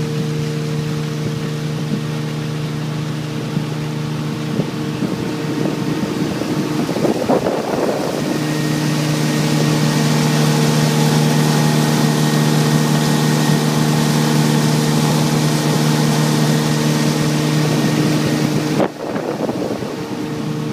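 Motorboat engine running at a steady pitch under a rush of wind and water; about eight seconds in the rush grows louder, and near the end the sound briefly drops out.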